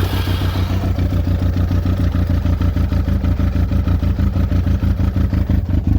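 Yamaha YZF1000R Thunderace's inline-four engine running cold on freshly rebuilt carburettors, with a steady, even idle that cuts out suddenly near the end: the engine stalling before it has warmed up.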